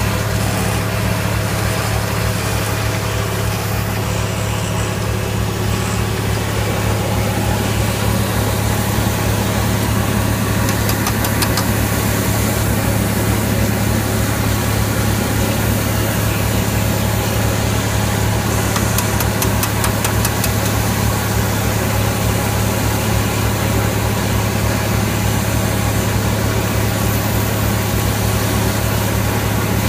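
Tractor engine running steadily under the mounted pneumatic seed planter.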